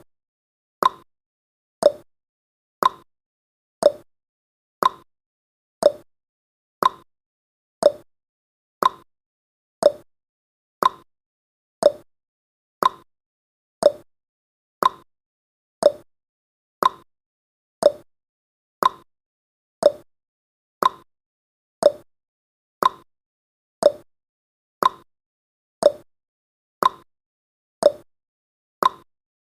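Countdown timer sound effect: a short, sharp tick once every second, evenly spaced.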